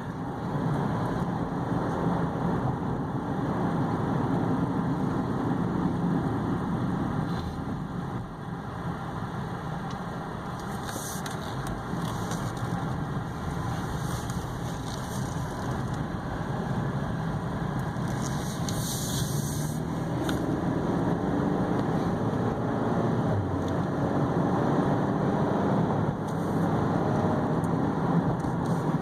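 2015 Chevy Equinox's 2.4-litre four-cylinder engine running with tyre and road noise in the cabin on a test drive. The noise dips briefly about a third of the way in, then builds again.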